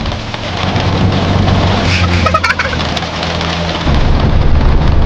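A car engine running steadily while rain falls, with a brief cluster of sharp, higher-pitched sounds about two seconds in.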